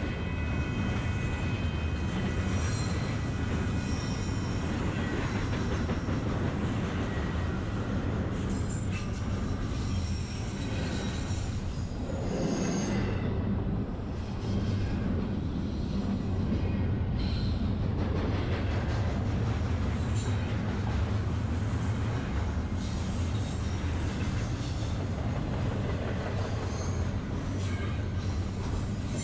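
Long intermodal freight train rolling around a tight curve with a steady low rumble. Thin, high-pitched wheel squeal from the cars on the curve comes and goes over it, most continuous in the first few seconds.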